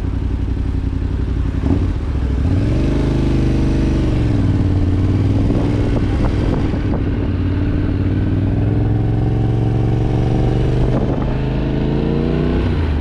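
Yamaha Ténéré 700's parallel-twin engine running while the bike is ridden. Its note climbs about two and a half seconds in, holds fairly steady, then rises again near the end.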